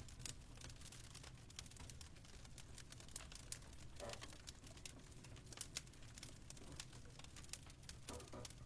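Fireplace fire crackling faintly: irregular small pops and snaps over a steady low hum.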